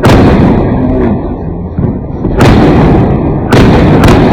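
Fireworks exploding: loud bangs at the start, about two and a half seconds in, and twice in quick succession near the end, each followed by a rolling rumble that dies away.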